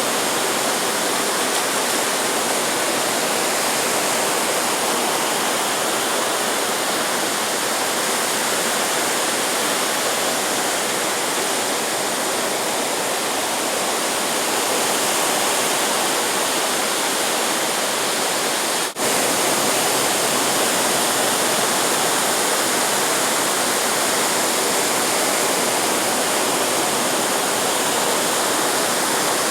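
Steady rushing noise of ocean surf, even in level, with a brief dropout about two-thirds of the way through.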